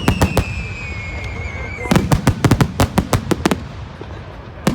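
Fireworks going off: a rapid run of sharp cracks and bangs, densest about two seconds in, with a whistle falling in pitch over the first two seconds.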